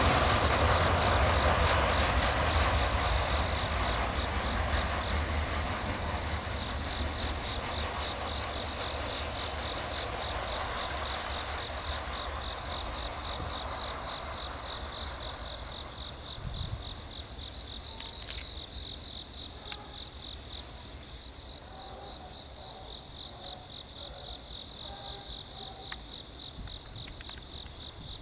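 Rumble and rail noise of a fast intermodal freight train's last cars, fading steadily as the train moves away. As it dies out, insects chirping in a fast, even pulsing rhythm become the main sound.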